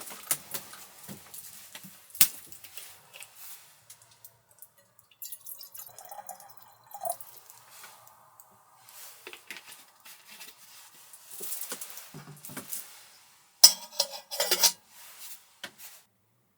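Small clinks, taps and knocks of dishes and utensils being handled, with a louder cluster of ringing clatters near the end. The sound then cuts off suddenly.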